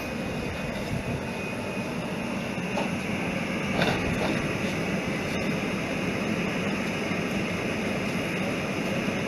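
Train running by with a steady rumbling rolling noise, a few short knocks about three to four seconds in.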